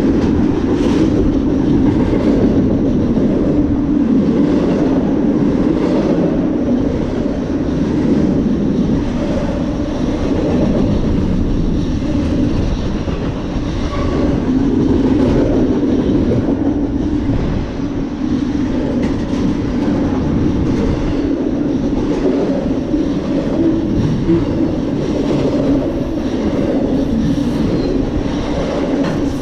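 Freight train cars rolling past at speed: a steady rail rumble with the clickety-clack of wheels over the track.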